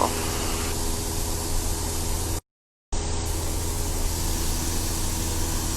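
Steady engine and airflow drone of a light aircraft heard from inside the cabin, with a low hum. It cuts out completely for about half a second a little past halfway.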